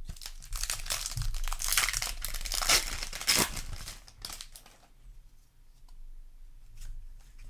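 Foil wrapper of a Magic: The Gathering play booster pack being torn open and crinkled for about five seconds, then a few faint clicks.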